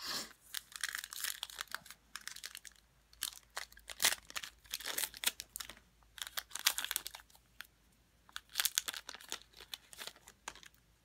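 Trading-card pack wrapper crinkling and tearing open, with cards being handled: a run of short, irregular crackly rustles.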